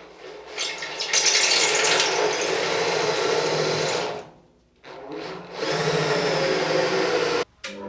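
Power drill driving a 5 mm hex-shank drill bit through a 20-degree offset bit driver, drilling excess zinc out of a vent-flap pin hole in a hot-dip galvanised bulkhead. It runs in two bursts, about three seconds then about two, with a short pause between.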